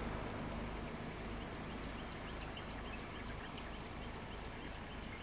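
Outdoor ambience: a bird gives a quick series of short chirps from about a second and a half in until near the end, over a steady high-pitched insect drone and a low rumble.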